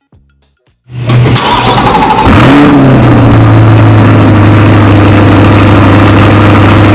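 A car engine starts about a second in, blips once with a quick rise and fall in revs, then settles into a loud, steady idle.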